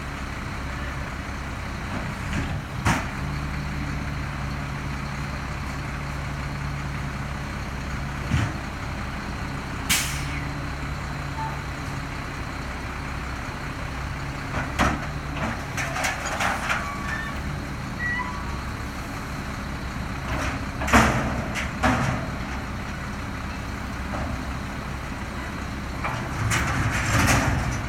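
Garbage truck engine running steadily, with several loud bangs and clatters over it and a short hiss of air about ten seconds in.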